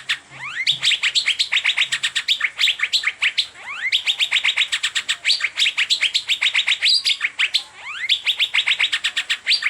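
Asian fairy-bluebird (cucak biru) singing a fast, continuous run of sharp chirps at about ten notes a second, with a few rising whistled glides mixed in.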